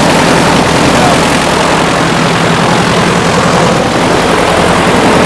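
Piston aircraft engine, just converted to fuel injection, running steadily at low power as it warms up on its first run.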